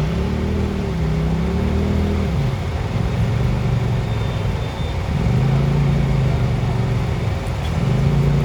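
An off-road 4x4's engine revved up and down in several swells, with a lower, steadier stretch in the middle.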